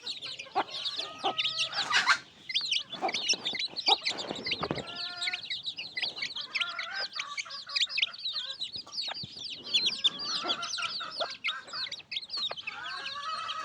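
A brood of chicks peeping constantly in short high cheeps, with a hen clucking among them.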